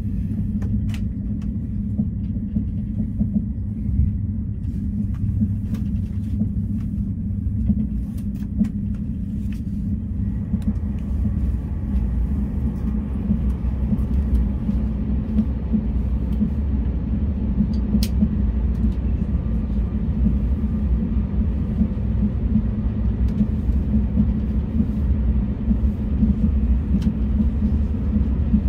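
Passenger train running, heard from inside the carriage: a steady low rumble of wheels and running gear with scattered light clicks and rattles. About ten seconds in, a wider rushing noise comes up and the sound grows a little louder.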